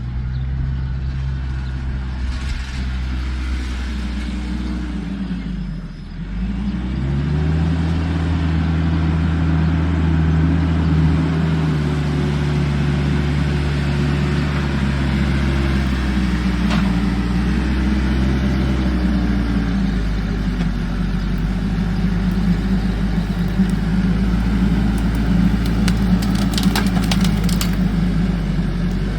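A large engine running steadily, its pitch dropping about six seconds in, then rising again and holding at a higher speed. A few sharp clicks come near the end.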